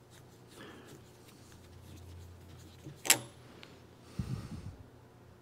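One sharp knock about three seconds in, then a short low rattle about a second later, typical of a tool or part being handled on a workbench.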